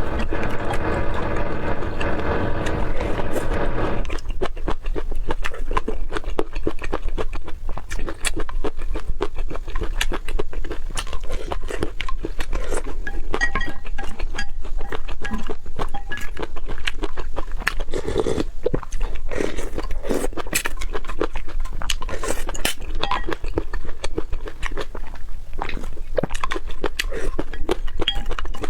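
Close-miked eating: a dense run of irregular wet chewing clicks and crunches over a steady low hum. For about the first four seconds a steady pitched tone plays over it, cutting off suddenly.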